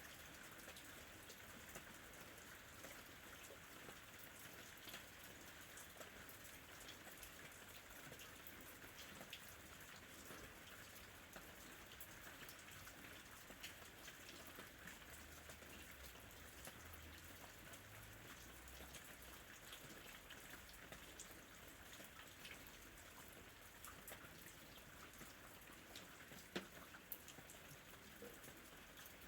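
Faint, steady rain with scattered ticks of individual drops, and one sharper drop tick near the end.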